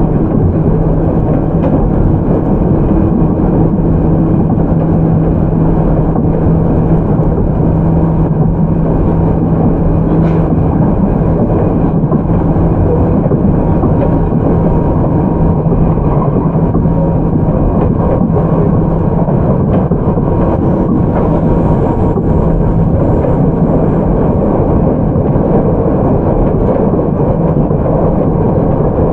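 Running sound of a JR 211 series electric train, heard inside motor car MoHa 210-3027: a steady rumble of wheels on rail with a steady low hum from its MT61 traction motors as it runs along at a constant pace.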